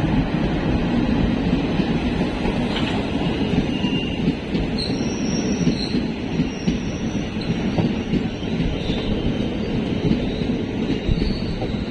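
Passenger train running on the rails, heard on board as a steady rumble of wheels and carriage, with brief high-pitched wheel squeals from about five seconds in.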